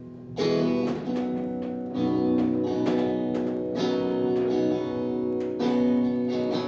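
Acoustic guitar strummed in chords, an instrumental passage between sung lines of a song, with a fresh strum about every second.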